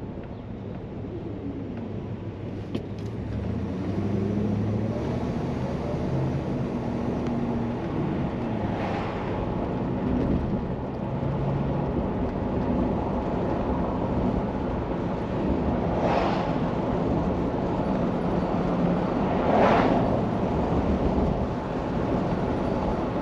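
1968 Plymouth Fury's 383 V8 heard from inside the cabin while driving, with steady road and tyre noise. The engine note rises in the first few seconds as the car picks up speed. A few brief louder swells of noise come later.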